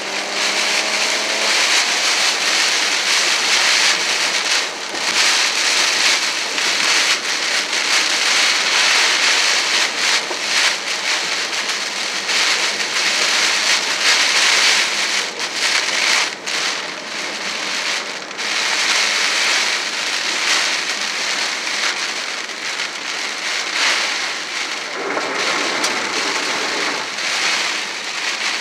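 Heavy, wind-driven rain pelting a moving car's windshield and body, heard from inside the cabin. It is a dense steady hiss that keeps swelling and easing with the gusts.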